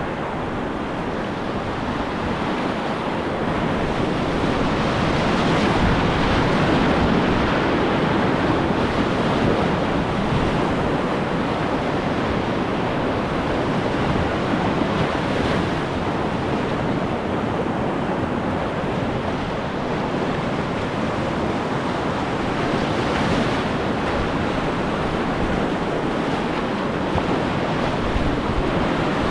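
Whitewater rapids rushing loudly and steadily, swelling a little several seconds in.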